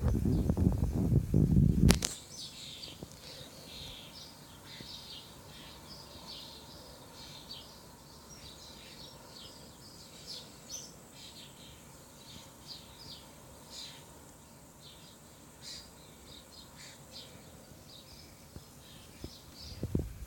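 A loud low rumble for about the first two seconds, cut off by a sharp click. Then baby birds cheeping: a steady run of many short, high chirps.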